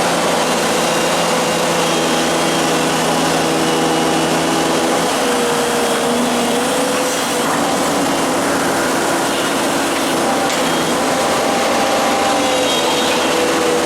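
Komatsu excavator running steadily at working revs, a loud continuous engine noise with a faint tone that wavers slightly in pitch.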